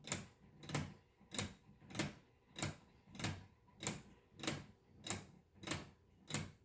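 Weight-driven 3D-printed plastic Swiss lever escapement ticking steadily and evenly, about one and a half ticks a second, as the escape wheel is released tooth by tooth.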